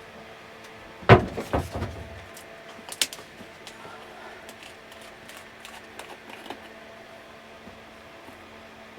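Knocks and clatter of things being moved about while someone searches for a bottle of PVA glue: the loudest knocks come about a second in, another around three seconds, then lighter clicks. A faint steady hum comes in after about three and a half seconds.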